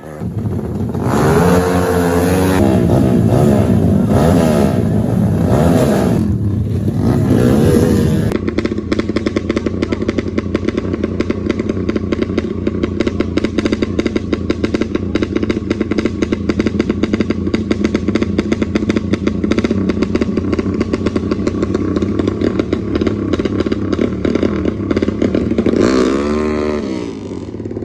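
Off-road motorcycle engine revving up and down for about eight seconds, then running steadily with a fast, even firing beat, and revving again near the end.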